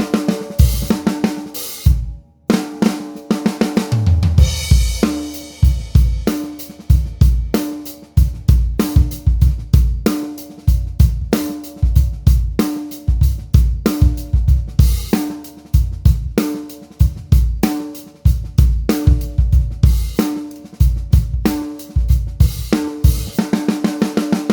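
Drum kit playing a steady groove: a Joyful Noise TKO 14x6.5 brass snare drum on the backbeat, ringing after each hit, with kick drum, hi-hat and cymbals. The kit stops briefly about two seconds in, then comes back in with a cymbal crash.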